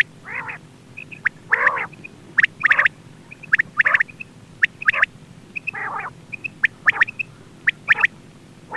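Quail calls played for hunting: short, sharp notes repeating about once a second, with rougher, buzzier notes between them, over a faint steady hum.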